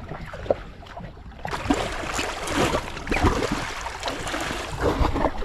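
Water rushing and splashing against a boat hull, with wind buffeting the microphone; a sharp click about half a second in, and the noise grows louder from about a second and a half in.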